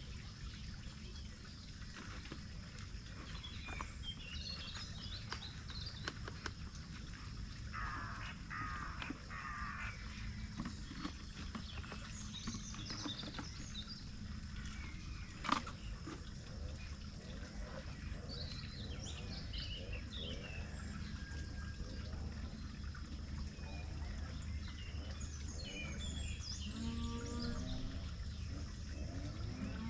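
Faint rural outdoor ambience: a steady low rumble under scattered bird chirps, with one sharp click about halfway through. Near the end a cow starts to moo, a drawn-out pitched call.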